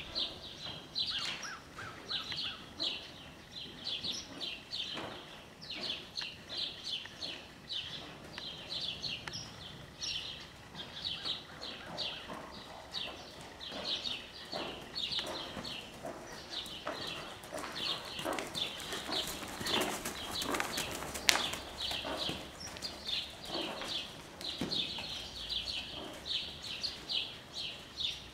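Birds chirping over and over, two or three short chirps a second, with fainter irregular thuds underneath and one sharp click about 21 seconds in.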